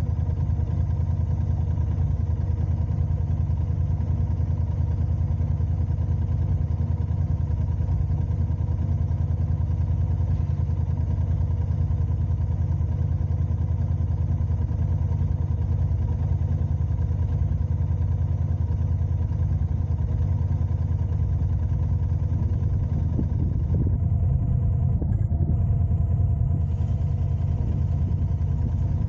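Car driving: a steady low rumble of engine and road noise, faint steady engine tones above it, growing slightly louder for a few seconds near the end.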